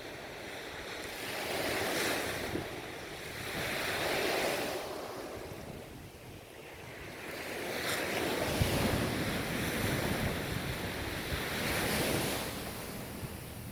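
Ocean surf washing onto a shore, the sound of the waves swelling and ebbing in slow surges a few seconds apart.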